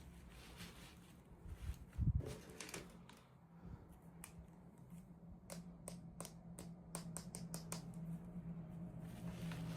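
Hands handling small plastic toy pieces and packaging: scattered light clicks and taps, a bump about two seconds in and a quick run of clicks around the middle, over a faint steady hum.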